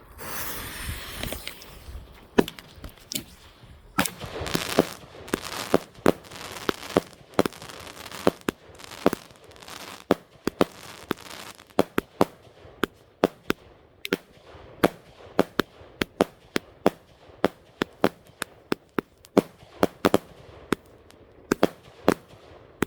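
Fireworks going off: a hiss for the first couple of seconds, then a long string of sharp bangs with more hissing between them, coming at about two a second in the second half.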